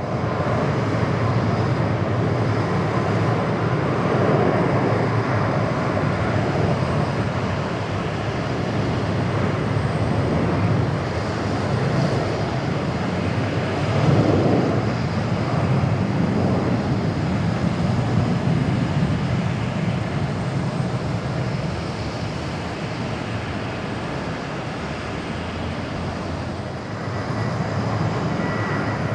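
Boeing 737-800 airliner's twin jet engines at takeoff thrust: a steady, loud rushing rumble that swells to its loudest about halfway through as the jet passes, then slowly eases off as it climbs away.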